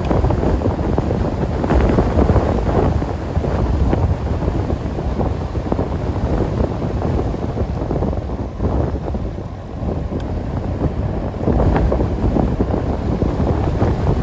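Wind buffeting the microphone of a camera on a moving bicycle: a steady low rushing noise that eases briefly about nine seconds in, then picks up again.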